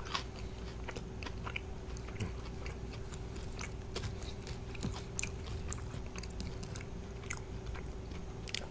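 Close-miked mouth sounds of a person chewing fried potato wedges: irregular small crunches and wet clicks.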